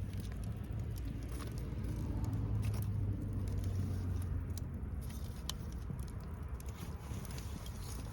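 Wood fire crackling, with scattered sharp pops and ticks over a low steady background. In the first half a low rumble swells and fades again.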